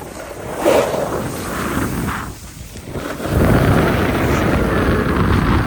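Wind rushing over the microphone of a camera carried on a moving snowboarder, with the board scraping over the snow. It gets louder and heavier about three and a half seconds in.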